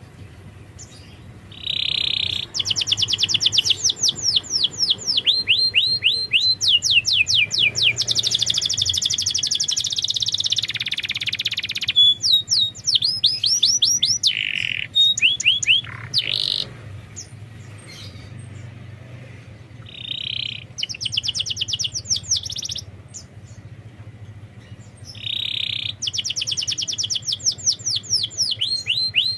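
Domestic canary singing in phrases of fast trills, each trill a rapid run of repeated falling notes, several phrases opening with a short harsh buzzy note, with brief pauses between phrases.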